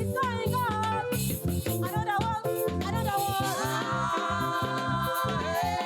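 Gospel praise music: a band with bass and drums plays under a sung melody line that holds a long note in the second half.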